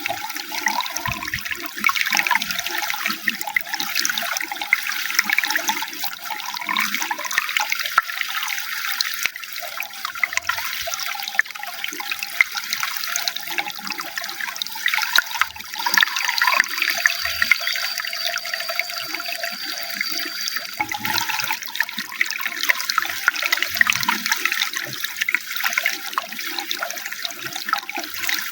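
Running water, a steady continuous rush. A faint thin high tone sounds for a few seconds a little past the middle.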